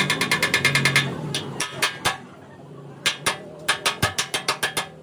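Light hammer taps on a car's sheet-metal body panel, in quick runs of about eight taps a second with a pause in the middle.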